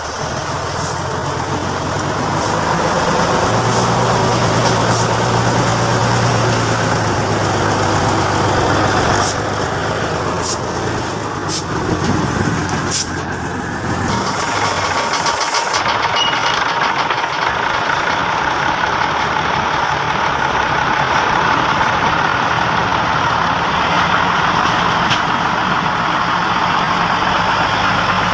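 Heavy truck engine running steadily, with a low hum for a few seconds and scattered sharp clicks through the first half. The sound changes character about halfway through.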